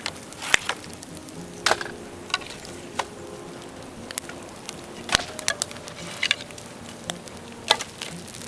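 Dry bamboo burning in an open fire, crackling with irregular sharp pops, about one or two a second.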